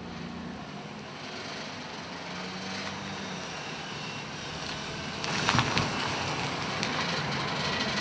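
Pickup truck driving slowly up and pulling in close by: engine running and tyres rolling, growing steadily louder as it nears, with a short spell of crackling about five seconds in.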